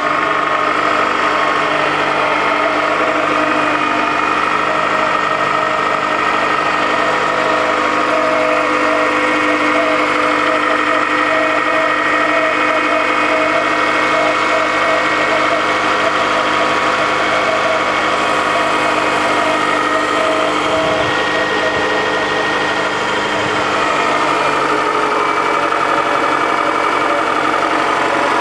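Toyota Camry engine idling steadily from a cold start, with a fast rhythmic clatter over it; the owner flags this as an extraneous noise that should not be there.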